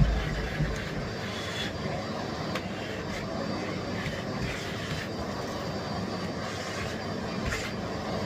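Miele Blizzard CX1 bagless cylinder vacuum cleaner running steadily, with a few brief clicks and knocks from the cleaning head.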